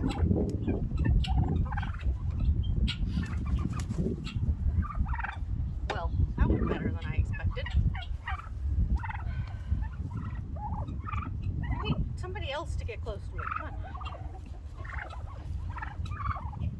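Flock of domestic heritage turkeys (Narragansett, slate and bronze) calling over and over in a stream of short, overlapping calls, over a heavy low rumble that eases about three-quarters of the way through.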